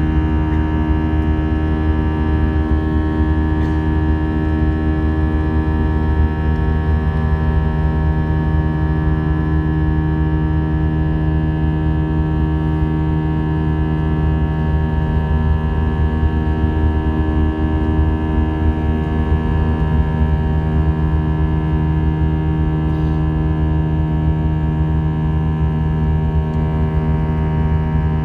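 Airbus A320's jet engines heard inside the passenger cabin as a steady drone, made of many unchanging tones over a steady rush.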